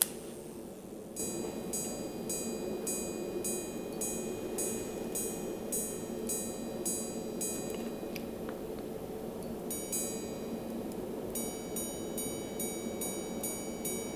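Minute repeater of a Jaquet Droz Tropical Bird Repeater wristwatch chiming the time: its hammers strike the gongs in an even run of ringing strikes, pause about two seconds, then strike again in a quicker run, the hour, quarter and minute sequence.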